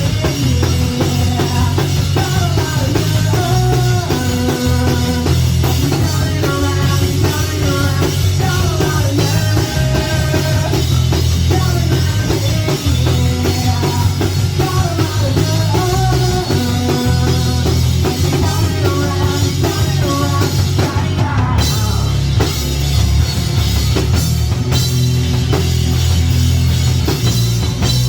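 Live rock band playing an instrumental stretch of a song: drum kit, bass and electric guitars, loud and continuous, with a brief break in the cymbals a little past the middle.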